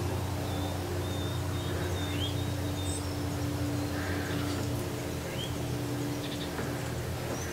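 Birds calling: a few short rising chirps several seconds apart and a thin, steady high whistle, over a steady low hum.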